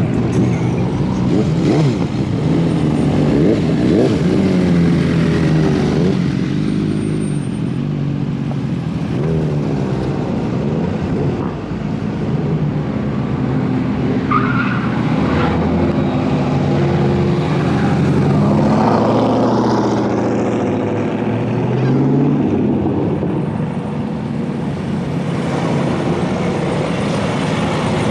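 Car engines running close by, their pitch rising and falling as they rev and pull through.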